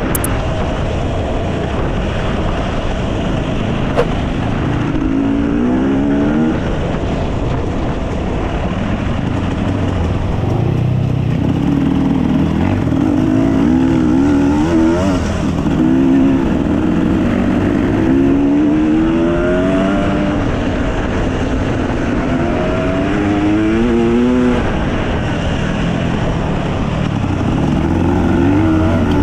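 Enduro dirt bike engine running under load, its pitch climbing again and again as the rider accelerates and shifts up through the gears.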